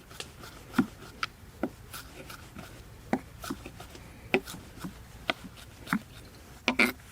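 Food being prepared by hand: a series of irregular sharp clicks and taps, with a longer, louder clatter near the end.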